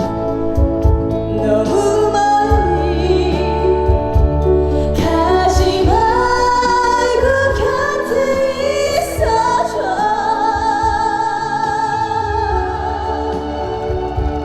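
A slow, gentle trot ballad performed live: a woman sings over a backing track with a steady bass.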